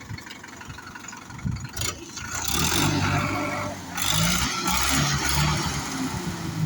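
Sonalika tractor's diesel engine running and then revved hard, in two loud surges with a short dip between them.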